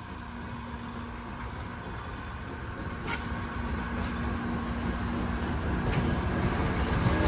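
Passenger cars of a steam-hauled train rolling past: a low rumble of wheels on rail that grows steadily louder, with two sharp clicks about three and six seconds in.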